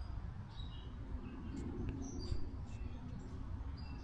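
Small birds giving short, high, scattered chirps, over a low rumble of wind on the microphone.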